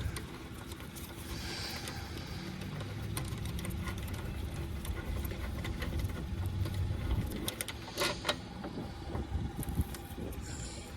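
Wrench work on exhaust mount bolts: ratcheting and metal clicks over a steady low hum, with a few sharp ticks about eight seconds in.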